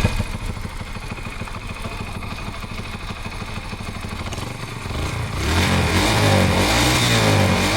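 Yamaha STX125 motorcycle engine running after its rebuild with a new piston and a rebored cylinder. It runs steadily at first, then is revved up, louder, about five seconds in.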